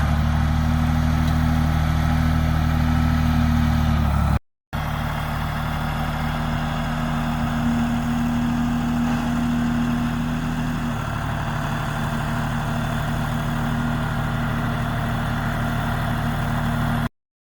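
Engine of the machine hauling the manure running steadily at a constant low speed. It drops out briefly about four seconds in, then runs on with a slight change in its note near the middle and cuts off abruptly just before the end.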